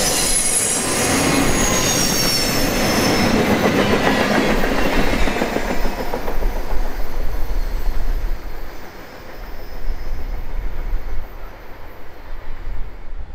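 Freight train flatcars loaded with railroad ties rolling by on a curve, their wheels squealing high and wavering for the first few seconds. The rumble of the wheels on the rails then carries on and fades away as the end of the train passes into the distance.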